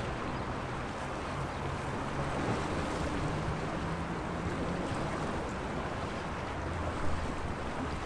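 Sea waves washing steadily against the shore, with a low hum underneath and a brief louder splash about seven seconds in.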